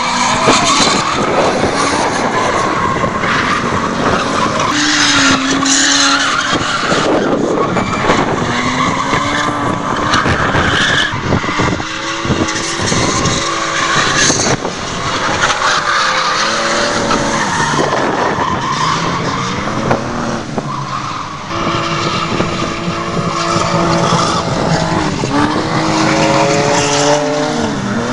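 Drift cars running: engines revving up and falling back again and again, with tyres skidding and squealing.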